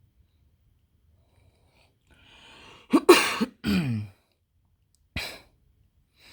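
A person drawing a breath and then coughing twice, hard, about three seconds in, followed by a short sharp sound about a second later.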